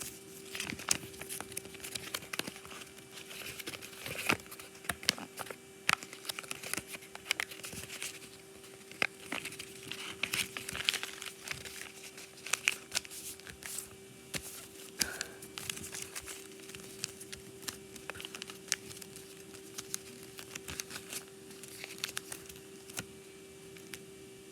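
Sheet of origami paper being handled, folded and creased, with irregular crinkles and sharp crackles that die down near the end.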